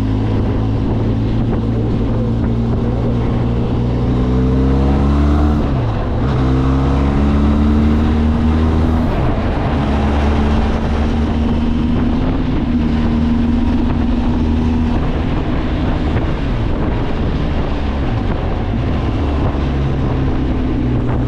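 Benelli TRK 502X motorcycle's parallel-twin engine under way. The engine note climbs, drops sharply at a gear change about six seconds in, climbs again, then holds steady, with wind noise throughout.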